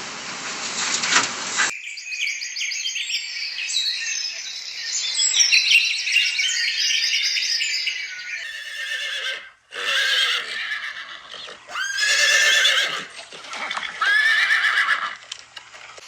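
Animal calls: after a sudden change about two seconds in, a run of high, wavering cries, with longer cries that rise and then fall in the second half.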